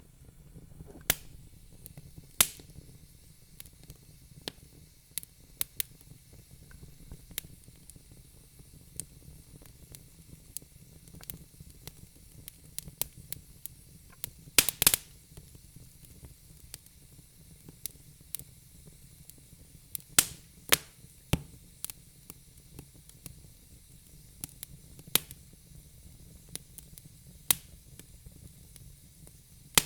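Wood fire burning in a fireplace: irregular sharp crackles and pops from the burning logs over a low steady rumble of the flames, with a quick cluster of loud pops about halfway through.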